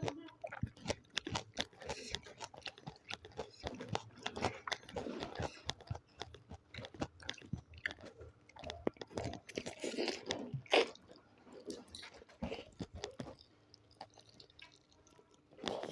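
Close-miked eating: irregular wet chewing with crunchy bites, louder bursts of crunching about a third of the way in and again past the middle.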